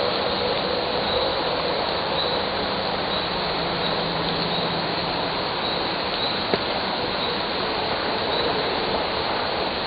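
Steady rush of flowing water. An insect chirps faintly about once a second.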